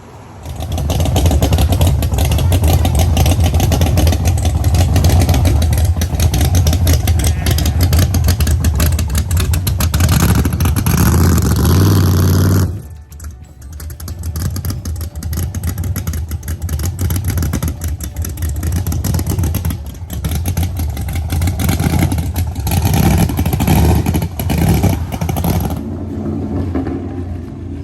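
Loud car engine running, heavy and steady for about twelve seconds, then dropping off and coming back in uneven swells as it is revved.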